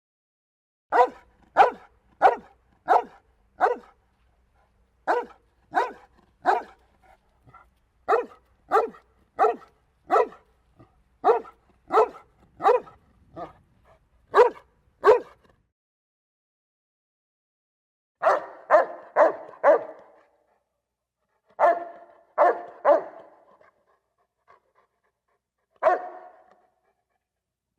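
Domestic dog barking: a long run of short single barks at a steady pace, a little more than one a second. After a pause of a few seconds come quick groups of three or four barks, then one last bark near the end.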